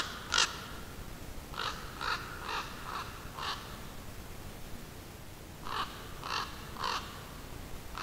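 A bird calling in short repeated notes: two at the start, a quick run of five, then three more near the end.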